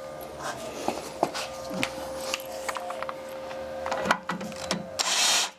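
Hand work on a metal machine: scattered small clicks and knocks over a steady hum, with a short, loud hiss about five seconds in.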